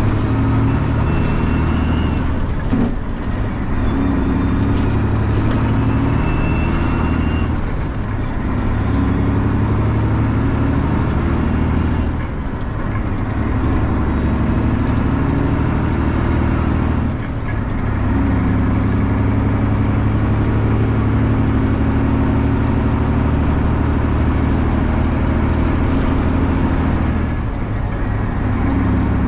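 Straight-piped 12.7 L Detroit Diesel six-cylinder in a loaded Freightliner truck pulling on the freeway, a loud steady diesel note broken by about five brief drops where the note cuts and comes back at a different pitch.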